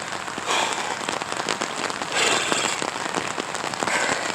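Rain pattering steadily, a dense crackle of drops, with three short swells of louder hiss spaced about a second and a half apart.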